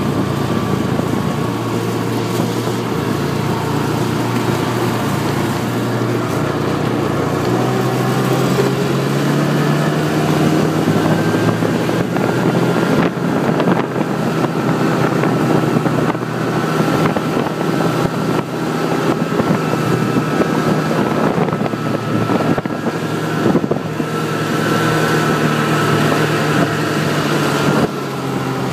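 Snowmobile engine running while under way. Its note climbs as it speeds up about a third of the way in, holds fairly steady, then eases off briefly near the end.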